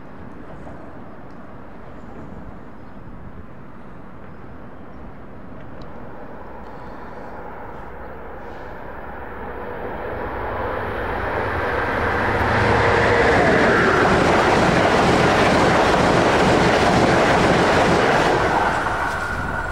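A train approaching and passing at speed: a distant low rumble builds from about halfway in to a loud rush of wheel and rail noise that holds for several seconds, then falls away near the end.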